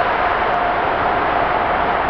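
Airbus A380's jet engines running: a steady rushing noise with a steady whine through it.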